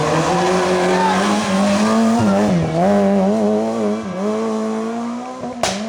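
Rally car engine running hard, its revs dipping and climbing again several times as the driver lifts and shifts, with tyre squeal. A sharp crack just before the end.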